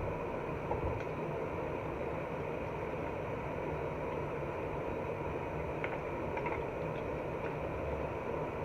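Kitchen vent hood fan running with a steady whoosh, said to be making too much noise, with a couple of faint ticks from chicken frying in the deep fryer about six seconds in.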